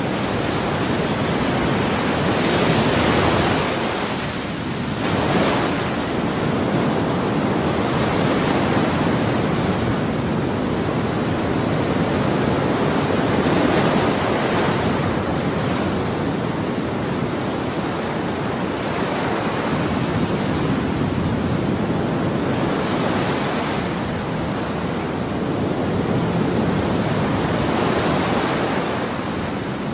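Ocean waves breaking and washing on a shore, a continuous surf hiss that swells and eases every few seconds.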